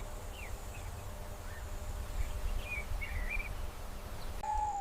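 Forest ambience: a steady low rumble with faint, scattered bird chirps, and near the end one short, level hoot.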